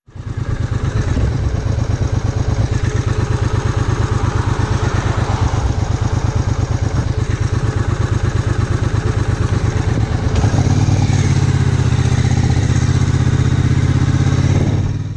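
Triumph Bonneville America's parallel-twin engine running with a rapid, even exhaust beat. About ten seconds in the note becomes smoother and slightly louder.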